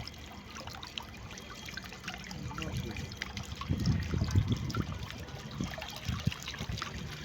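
Water from a small pump-driven recirculating fountain trickling and splashing into its basin. It grows louder and more uneven about halfway through.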